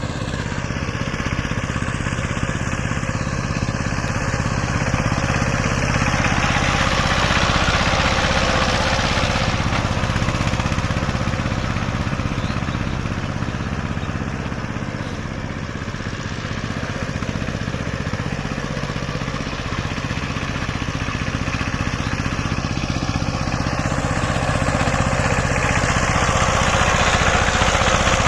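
Saiping 16 hp power tiller's single-cylinder diesel engine running steadily, growing louder a few seconds in and again near the end.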